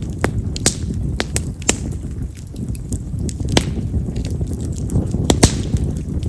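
Wild cherry (yamazakura) firewood burning in a campfire, crackling with irregular sharp pops over a steady low rumble. The loudest pop comes a little after five seconds in.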